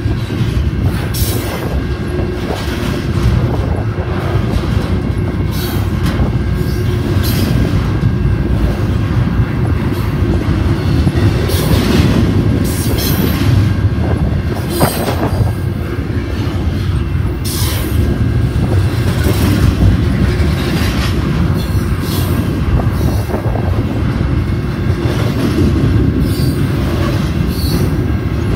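Double-stack intermodal train's container well cars rolling past close by: a loud, steady rumble of steel wheels on rail, with irregular clacks as the wheels pass over rail joints and a thin wheel squeal.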